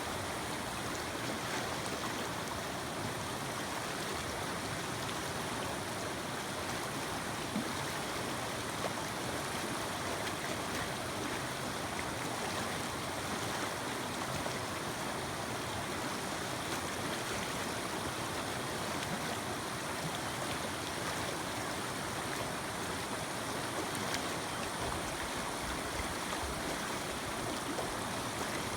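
Mountain creek water running, a steady even rush with no breaks.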